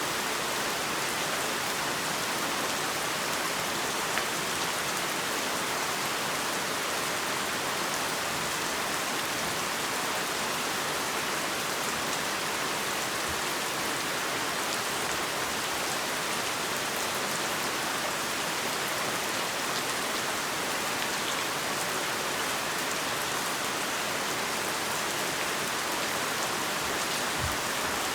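Heavy rain falling steadily, an even hiss of many drops on a surface, with a few faint low thuds from drops near the end.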